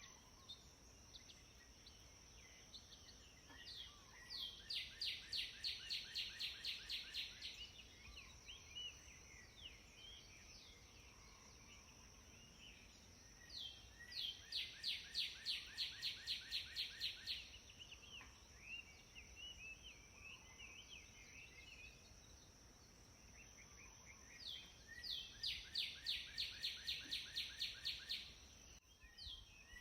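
A songbird singing the same loud, rapid trill of about five notes a second three times, roughly every ten seconds, with softer chirps from other birds in between. A steady high-pitched whine runs underneath.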